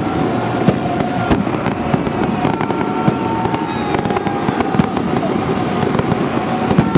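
Festive fireworks display: irregular sharp bangs and pops of bursting shells over a steady loud din.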